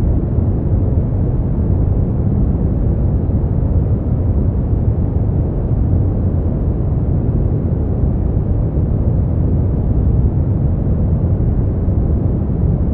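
Brown noise: a steady, deep rushing hiss, strongest in the bass and falling away toward the highs, unchanging throughout.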